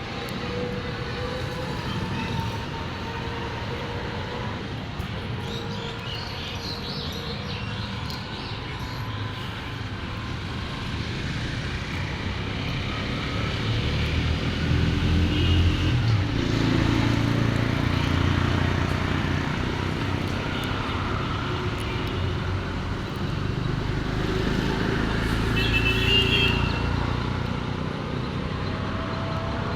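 Steady road traffic noise, a continuous low rumble that grows louder about halfway through.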